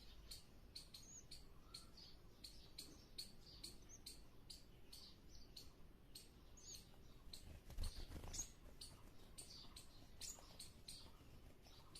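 Faint bird chirping: short high-pitched cheeps repeated several times a second, with a brief low thump about eight seconds in.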